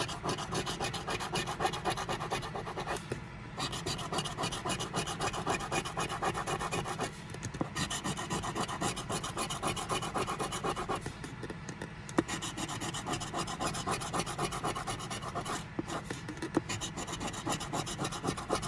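Scratch-off lottery ticket being scratched, in rapid repeated scraping strokes, with short pauses about three, seven, eleven and sixteen seconds in.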